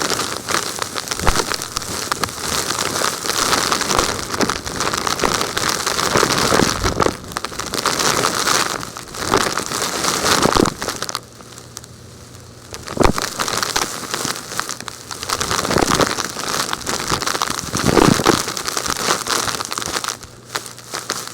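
Dry, gritty material crackling and crunching as it is handled, in dense irregular bursts, with a brief lull about eleven seconds in.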